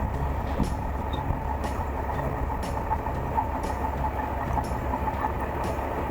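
Suzuki GSX1400 inline-four motorcycle riding at a steady pace, its engine drone mixed with a low wind rumble on the bike-mounted action camera's microphone.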